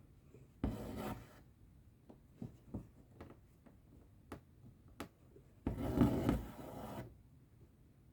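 Embroidery thread drawn through cross-stitch fabric: two long rubbing pulls, the second longer and louder, with small ticks of the needle between.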